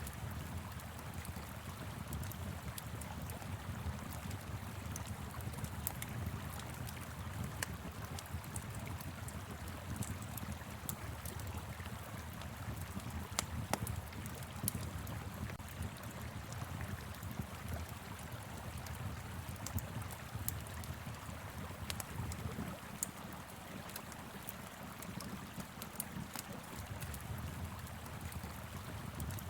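Wood fire in a fire pit crackling with scattered sharp pops, over the steady rush of a flowing river and a low rumble of wind.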